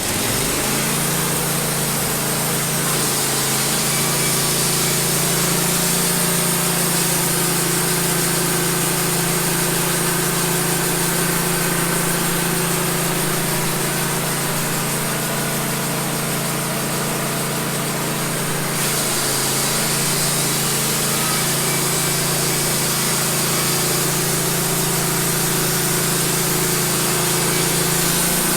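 Wood-Mizer LT15 band sawmill sawing through a cedar log: the engine runs steady under load while the band blade cuts with a dense, even hiss. The blade has one tooth knocked slightly out of line by a nail, which leaves a rough cut but still cuts well.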